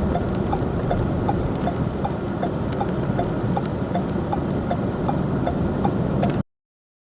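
A vehicle driving on a snowy road: steady low engine and road noise with a regular ticking of about three clicks a second. It cuts off suddenly near the end.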